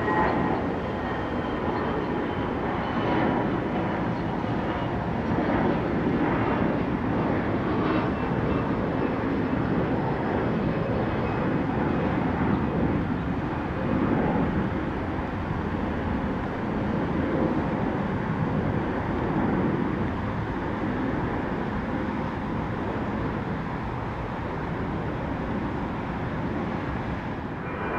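Departing jet airliner's engines, a steady rumble that holds for the whole stretch, with a faint high whine in the first few seconds that slowly falls in pitch and fades.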